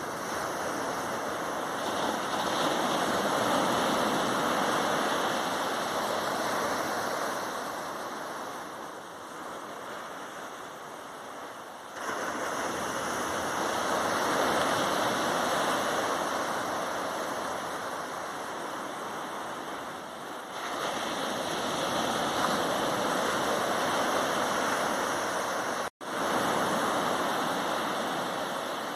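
Sea waves breaking and washing up on a sandy beach, a dense rushing wash that swells and eases with each wave, four times. The sound jumps in abruptly twice and cuts out for an instant near the end, like splices in the recording.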